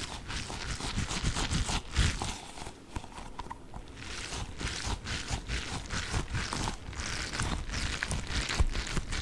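Hands handling a mass of orange Orbeez water-gel beads close to the microphone, making a dense, irregular run of small clicks and crackles with soft low thuds.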